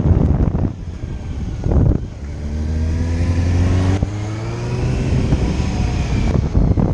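Wind buffeting the microphone, then from about two seconds in a motorcycle engine note climbing steadily in pitch for about four seconds as it accelerates, before the wind rush comes back near the end.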